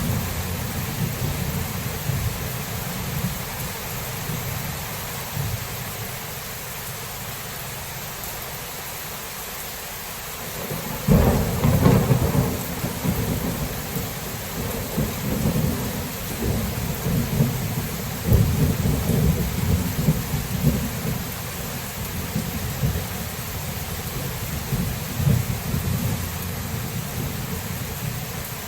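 Thunderstorm with steady rain. A low rumble fades over the first few seconds. A sharp thunderclap breaks about 11 seconds in, and rolling rumbles follow for several seconds before dying back to the rain.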